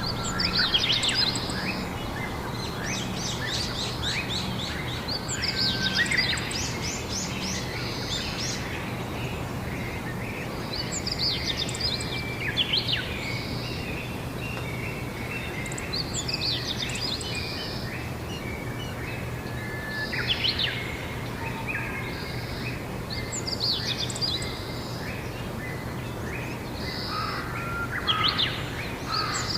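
Songbirds singing short, chirping phrases, one every three to five seconds, over a steady outdoor background hiss and a faint low hum.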